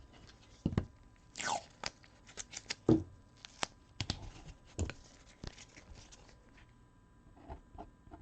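Trading cards and plastic card holders being handled: scattered clicks and taps with a short sliding rustle about a second and a half in, and lighter rustling near the end.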